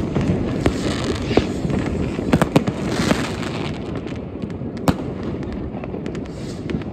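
Fireworks and firecrackers going off all around: a constant rumble of distant explosions with many sharp bangs and crackles scattered through it, a few of them loud and close.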